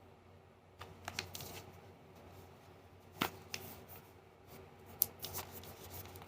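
Faint handling sounds of a makeup palette and its packaging: scattered light clicks and rustling, with a sharper click about three seconds in and another about five seconds in.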